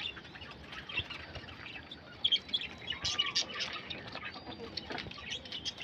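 Birds chirping in many short, high calls, with a few light clicks and knocks from a wire pigeon cage being handled.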